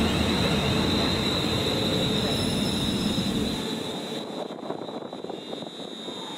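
A train passing at speed on the main line: a steady rush with a high whine, fading away as the deep rumble drops out about four seconds in.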